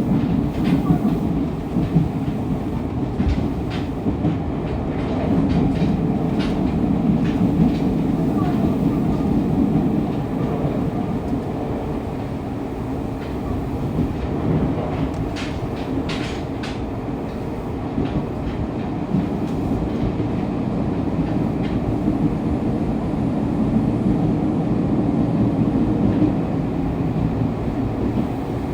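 Running noise inside a Fukuoka City Subway 2000-series car picked up from the floor: a steady rumble of wheels on rail, with scattered clicks of wheels over rail joints.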